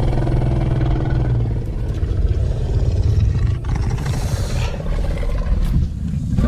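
Dinosaur creature sound effect for a Carnotaurus: a long, deep, rattling growl that runs on without a break.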